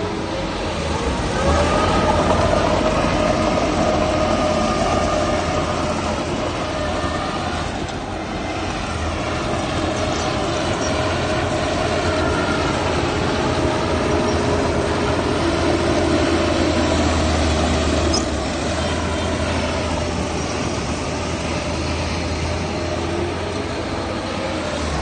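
Heavy diesel earthmoving machine running under load, with a steady low drone and a whine whose pitch shifts as the engine works harder and eases off, louder from about a second and a half in and easing off twice.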